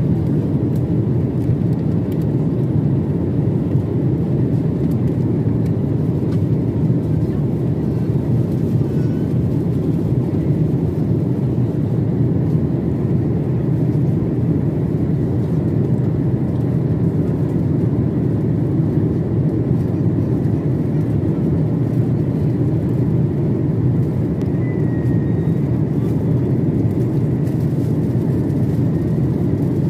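Airliner cabin noise in flight: a steady, low rumble that holds even throughout.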